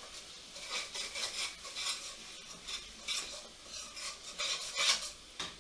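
A utensil scraping around a frying pan in repeated rasping strokes, stirring fried onions and ginger-garlic paste, with a light sizzle beneath.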